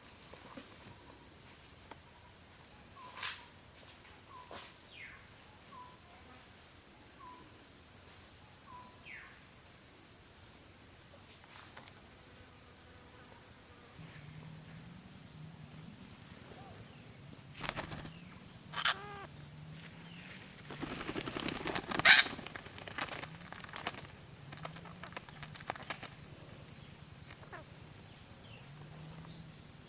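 Forest ambience: a steady high insect drone, with a run of short chirps repeating about every second and a half early on. From about halfway, a low rhythmic croaking of frogs joins in, and several loud rustling bursts come between about 18 and 23 seconds in.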